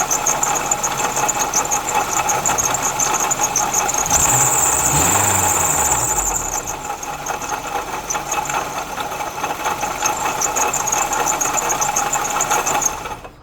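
2006 Honda Accord's 2.4-litre four-cylinder engine running with a fast, steady ticking. It is revved once about four seconds in, rising and falling back, and the sound cuts off abruptly near the end.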